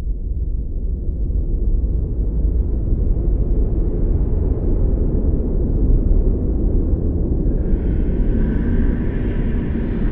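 Heavy blizzard wind with a deep, steady rumble that builds over the first couple of seconds. About seven and a half seconds in, a higher hissing gust with a faint whistle joins.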